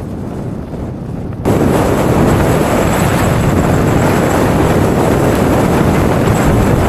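Strong wind blowing across the microphone, a low rush that jumps sharply louder about a second and a half in and stays loud.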